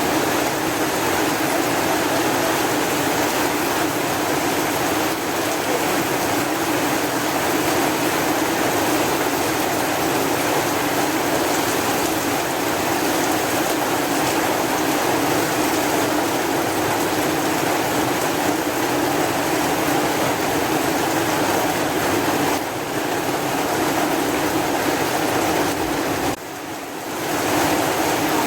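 Heavy rain falling, a steady dense hiss that briefly drops in level twice near the end.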